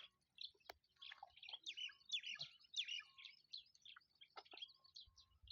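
Small birds chirping: many short, high calls overlapping in a busy chatter that thickens in the middle, heard faintly, with a single sharp click shortly after the start.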